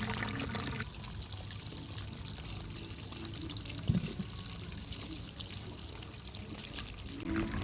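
Water running and pouring steadily, a continuous splashing hiss, with one short knock about four seconds in.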